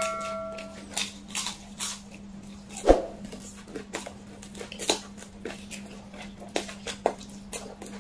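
Close-miked eating of sauced fried chicken: wet lip smacks and tooth clicks as meat is bitten and chewed off the bone, with one louder thud about three seconds in, over a steady low electrical hum.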